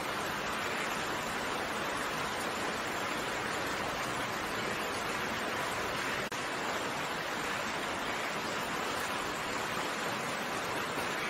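Steady rainfall: a dense, even hiss of many raindrops, with a momentary drop in level about six seconds in.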